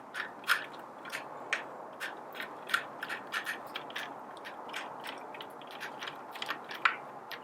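Irregular light clicks and scraping of hands and tools working on a coffee grinder's parts during reassembly, about three or four sharp ticks a second over faint rubbing.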